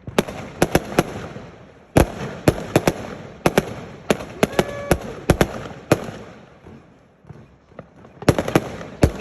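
A firework display going off: volleys of sharp bangs in quick succession with crackling between them. There is a short lull about two-thirds of the way through, then a rapid volley near the end.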